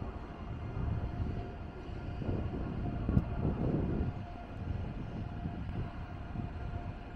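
Train rumbling in a railway station, the rumble swelling and fading, with a faint steady whine and one sharp knock about three seconds in.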